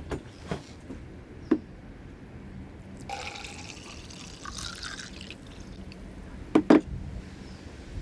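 Water pouring for about two seconds, as if filling a turned bamboo water vessel, with a few light clicks and a loud pair of knocks near the end.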